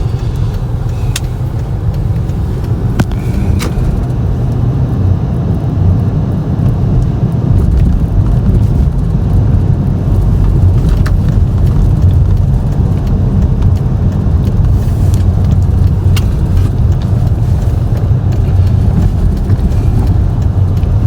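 A car being driven, a steady low rumble of engine and road noise, with a few faint ticks scattered through it.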